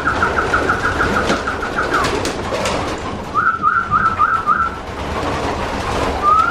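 Birds in a racing pigeon loft: a rapid run of high chirping notes lasting about two seconds, then a shorter run of five a second later, and a single rising call near the end. Under them is the low cooing and shuffling of the pigeons.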